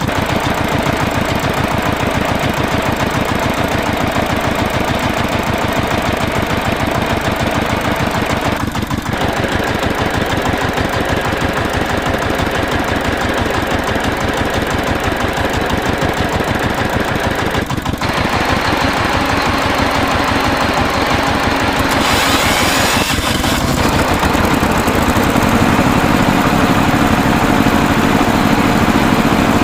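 Tractor engine running steadily with a rapid, even beat. The sound shifts abruptly about 9, 18 and 23 seconds in, and is a little louder over the last few seconds.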